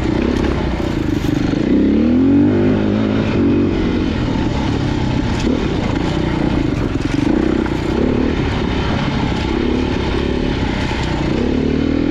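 Dirt bike engine on a rocky trail, revving up and easing off repeatedly, with short knocks and clatter over the engine.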